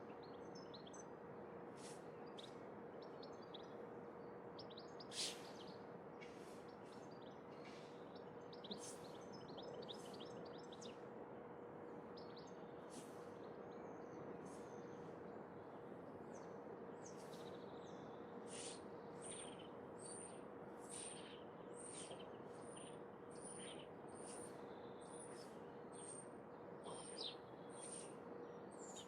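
Faint songbirds chirping and calling over a steady background hiss. From about two-thirds of the way in, one bird repeats a single high note, a little more than once a second.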